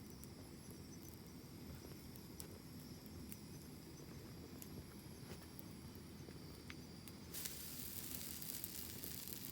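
Campfire burning: a low, steady rumble of flame with scattered sharp crackles and pops. About seven seconds in, a steady hiss sets in and carries on.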